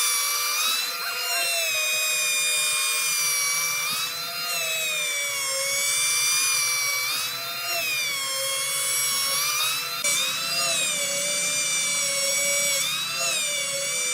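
High-speed power tool whining, its pitch sagging and recovering every few seconds as it bites into the wood and frees up again.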